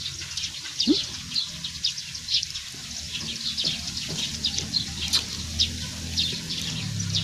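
Small birds chirping continually in quick, high, short chirps, with a low steady hum beneath that grows in the second half.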